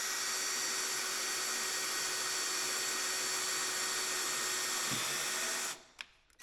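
Electric drill running steadily as it pre-drills a hole in white oak. It stops near the end, a short click follows, and it starts again.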